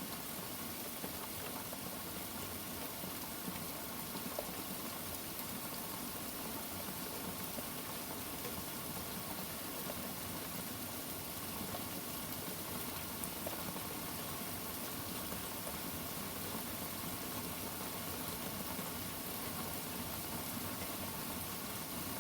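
Steady rain, an even hiss with a few faint scattered drop ticks.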